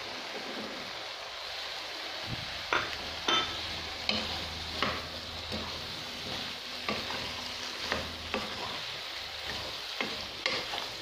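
Diced eggplant and chickpeas frying in spiced tomato in a pan, a steady sizzle, while a wooden spatula stirs them, scraping and knocking against the pan at irregular intervals.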